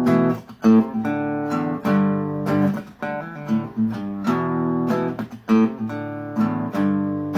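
Acoustic guitar strumming chords in a steady rhythm, several strokes a second: a song's instrumental intro before the vocals come in.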